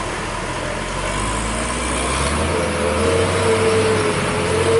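Box truck engine running under heavy load on a steep climb, with a steady whining tone coming in about halfway.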